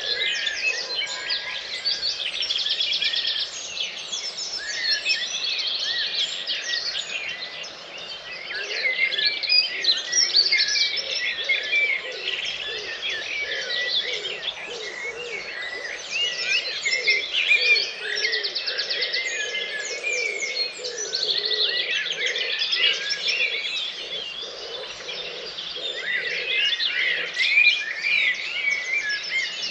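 Dawn chorus: many birds singing at once in dense, overlapping songs, with chirps, whistles and rapid trills running together without a break.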